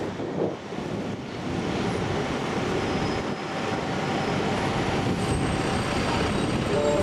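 Steady city traffic noise of buses and trams running through a busy interchange, with faint high whining tones coming in about three seconds in and again about five seconds in.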